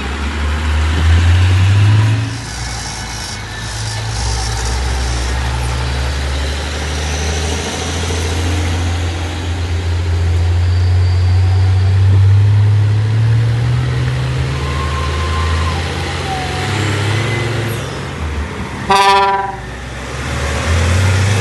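Truck's diesel engine running under load, its low rumble rising and falling in pitch, with one short horn toot near the end.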